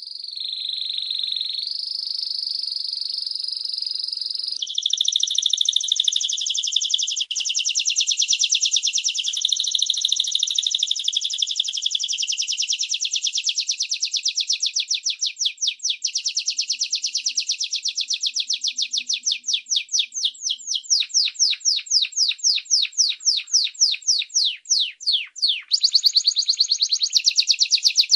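A bird singing one long, high, unbroken song. It starts as a held, warbling tone, then turns into a fast trill of repeated notes that slows into separate notes past the middle and speeds up again near the end.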